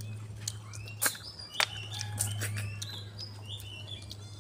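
Birds chirping, many short whistled notes, with a few sharp clicks about a second in and again half a second later, over a steady low hum.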